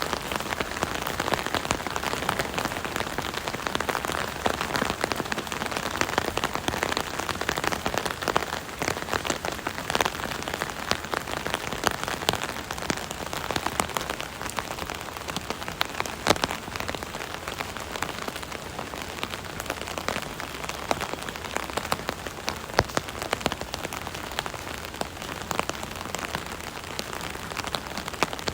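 Steady rain falling on an umbrella's canopy, a dense patter with many separate drops tapping sharply over the hiss of the rain.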